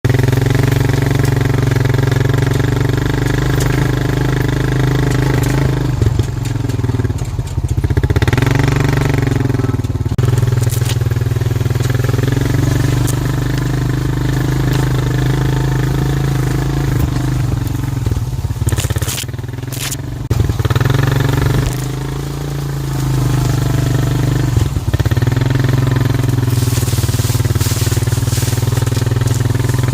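ATV engine running while riding off-road, mostly at steady throttle. The revs drop off and pick back up a few times, around a quarter of the way in and again about two-thirds through, with some rattling clatter.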